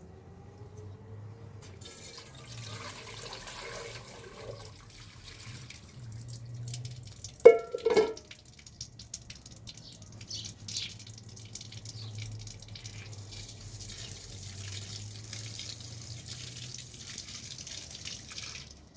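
Water running and dripping with a steady trickling hiss, and one short loud ringing knock about seven and a half seconds in.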